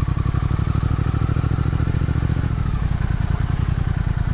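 Motorcycle engine running steadily under way, a fast, even pulse of firing beats.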